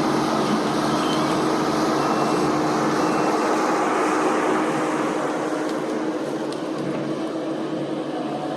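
Heavy machinery engine running steadily, with a steady hum that fades about halfway through as the sound eases off slightly.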